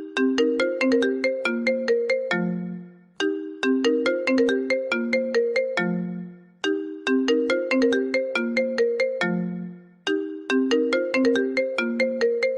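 iPhone ringtone: a short melody of struck, quickly fading notes, ending each time on a lower held note. It loops about every three and a half seconds, with a brief gap before each repeat, four times in all.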